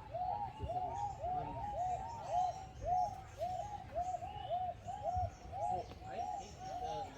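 A flock of birds calling together: many short, arched hooting notes overlapping in a continuous chorus, several a second.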